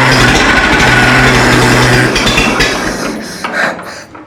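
A Minneapolis-Moline tractor engine that has sat unused for five years runs roughly on choke, with a steady honking tone from the spring-loaded choke vent. About two seconds in it falters, and it fades out and stalls near the end.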